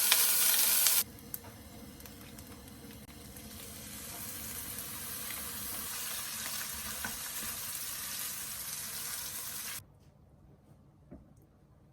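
Tap water running into a kitchen sink, loud, cutting off abruptly about a second in. A quieter steady hiss follows, slowly growing, then stops suddenly near the end, leaving a few faint clicks.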